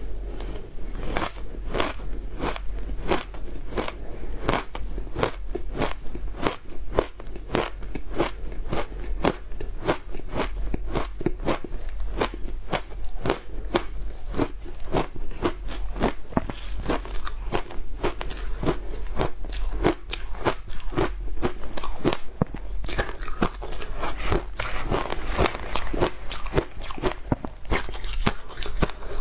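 Someone crunching and chewing frozen matcha ice, with close, sharp crunches at about two to three a second.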